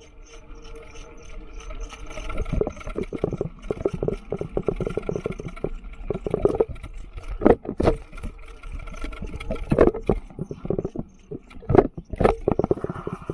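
Mountain bike rattling and knocking over a rough forest trail, with irregular jolts and a few harder knocks in the second half.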